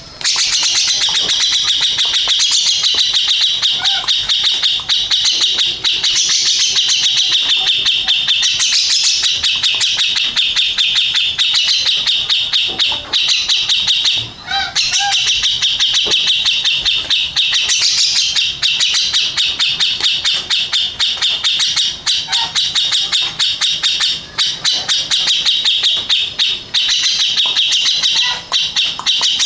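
Grey-cheeked bulbul (cucak jenggot) singing a loud, rapid, unbroken chattering song of high notes, with a brief pause about 14 seconds in.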